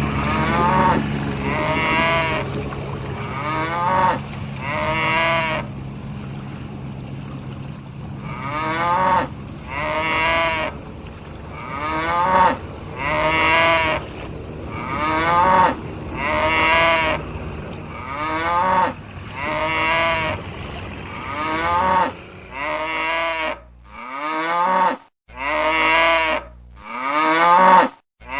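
Cows mooing: a long series of separate moos, one every one to two seconds, each call rising and then falling in pitch. A steady low hum runs under the first part, and the last few moos start and stop abruptly.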